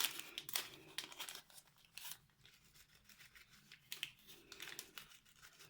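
Plastic packaging crinkling and rustling as it is handled, in irregular crackles that are loudest in the first second or so and fainter after.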